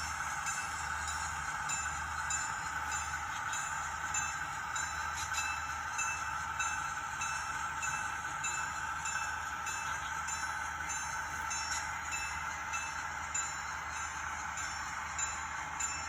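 Model train running on the layout: steady whirring running noise with a low hum, and a regular light clicking about twice a second.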